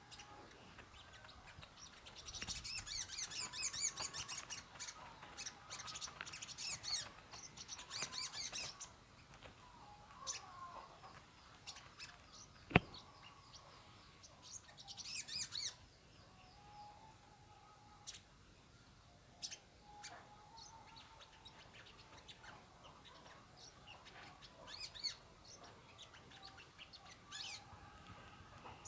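Small bird chirping in bursts of rapid, high-pitched notes, the longest run in the first third, with quieter scattered chirps later. A single sharp click comes about halfway through.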